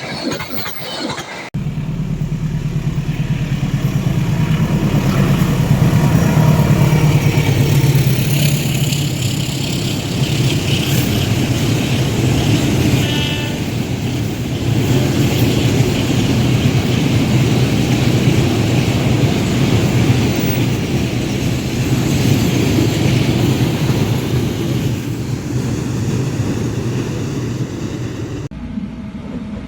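A train passing close by, with a steady low drone that starts suddenly about a second and a half in and stops suddenly near the end, and a brief higher tone about halfway through.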